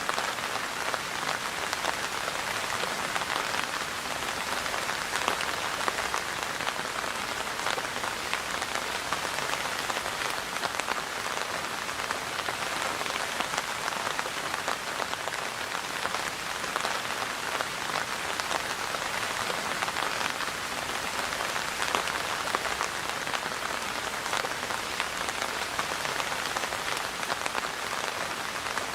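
Steady rainfall, the patter of many drops hitting a surface, even in strength throughout.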